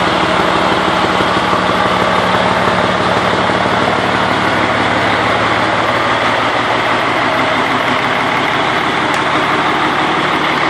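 Freightliner truck's diesel engine running steadily through a temporary straight-pipe exhaust with no stacks or muffler, loud and unmuffled.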